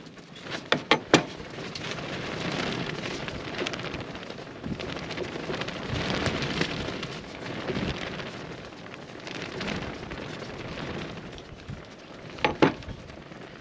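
Campfire crackling, with a few sharp pops about a second in and again near the end, under a rising and falling rush of wind.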